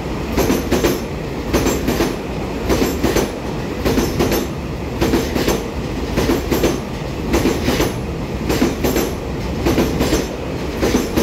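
Taiwan Railways EMU3000 twelve-car electric multiple unit running past at speed, its wheels clacking over rail joints in pairs about every second and a quarter over a steady rumble.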